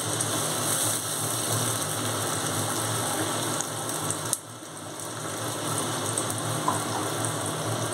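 Tomato and green chilli paste sizzling as it fries in hot oil in a non-stick pan, with a wooden spatula stirring and scraping against the pan and a few light taps. The sizzle dips for a moment a little past halfway.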